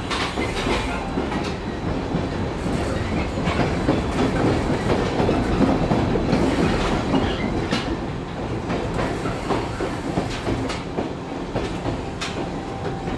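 Inside a JR West Series 103 electric train running on the rails: a steady rumble of wheels on track, with scattered sharp clicks as the wheels cross rail joints. The rumble is a little louder in the middle.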